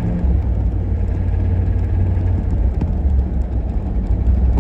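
1990 GMC 1500 pickup truck under way, its engine and drivetrain making a steady low rumble. The engine is knocking a little bit.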